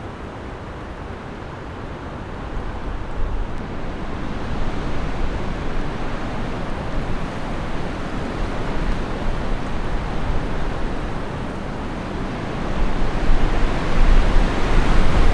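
Strong winter wind blowing in gusts, a steady rushing noise that swells a few seconds in and grows louder near the end, where wind buffeting on the microphone adds a heavy low rumble.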